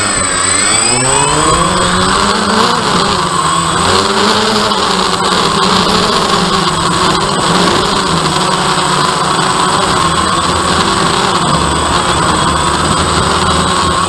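DJI Phantom quadcopter's motors and propellers humming steadily over a high whine, their pitch rising and falling as the drone speeds up and slows down.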